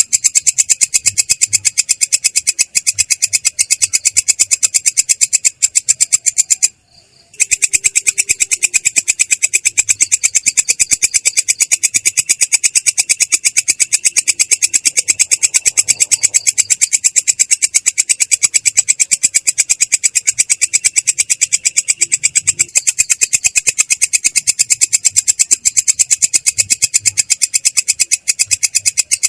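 Belalang kecek bush cricket (katydid) singing a continuous rolling trill: a fast, even stream of rasping pulses, clear but rough, broken by one short pause about seven seconds in.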